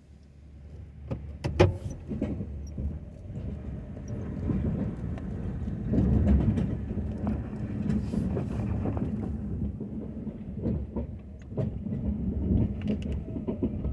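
Snow-plow pickup truck running: a low engine rumble that swells and eases, with scattered clunks and knocks over it.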